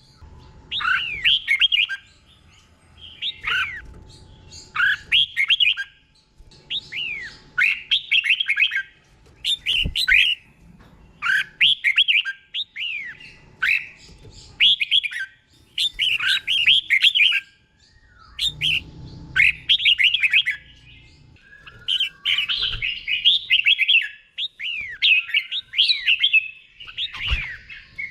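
Red-whiskered bulbul singing: short, bright whistled phrases repeated about every second or two, each a quick run of rising and falling notes.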